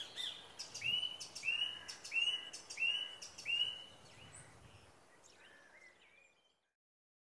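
Birds singing outdoors: one bird repeats the same short arched note five times, about two a second, among higher chirps from others. The birdsong fades out near the end.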